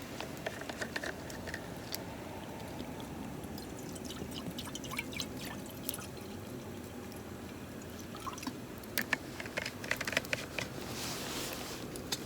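Water being poured, with scattered light clicks and knocks of gear being handled.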